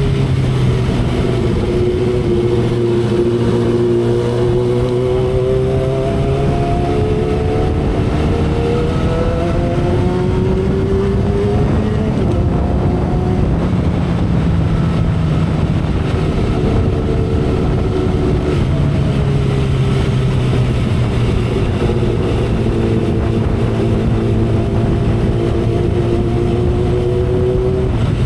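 2012 Kawasaki Ninja ZX-10R's 1000 cc inline-four engine running at expressway speed, its note climbing slowly, dipping briefly near the middle, then holding steady. A constant rush of wind runs under the engine.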